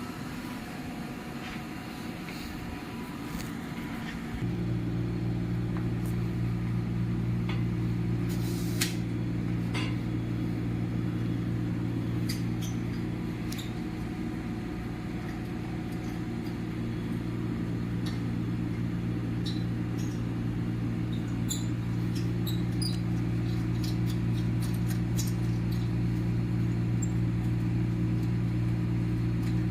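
Microwave oven switching on about four seconds in and running with a steady low mains hum, with scattered faint ticks.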